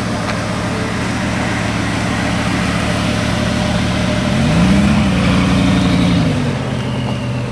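Car engine running steadily, then revving up about four seconds in, holding the higher speed for nearly two seconds and settling back down.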